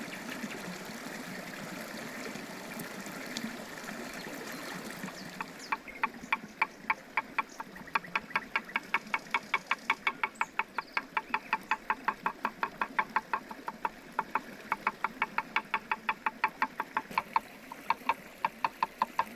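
Water trickling for the first few seconds, then a knife chopping on a cutting board in quick, even strokes, about four a second.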